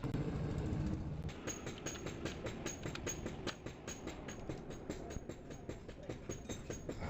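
Rapid, evenly spaced clicking, about five or six clicks a second, starting about a second in after a brief low rumble.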